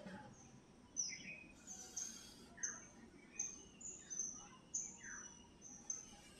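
A small bird chirping repeatedly: short, sharp high chirps with a quick falling note, about one to two a second, faint against low room hiss. The soft scratch of a marker on a whiteboard lies underneath.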